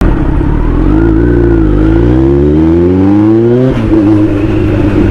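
Superbike engine accelerating: its pitch climbs steadily for a couple of seconds, then drops suddenly near the middle as it shifts up a gear and pulls on.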